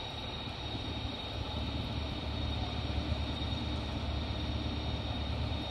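Diesel passenger locomotive idling, a steady low rumble with a thin steady high whine above it.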